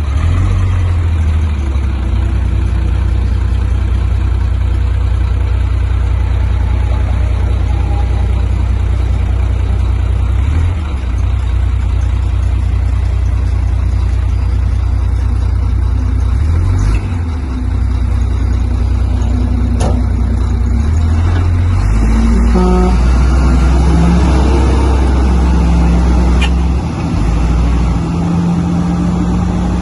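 Heavy diesel earthmoving machinery running with a deep, steady engine drone. About two-thirds of the way through the engine note shifts and rises and falls as the engine is worked harder.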